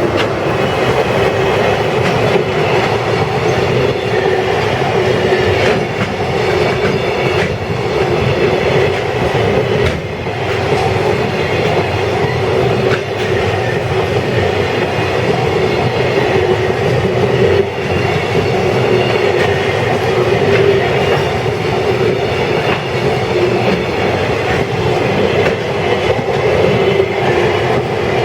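Freight train hauled by a JR Freight EF210 electric locomotive passing close by: a steady loud rumble of wagons rolling, with wheels clacking irregularly over rail joints.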